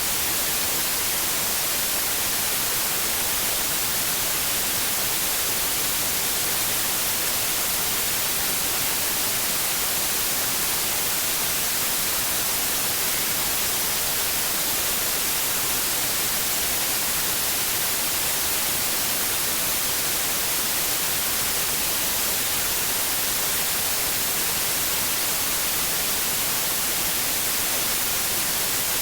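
Steady white noise: an even, unchanging hiss, strongest in the high frequencies, played as a sleep sound for babies.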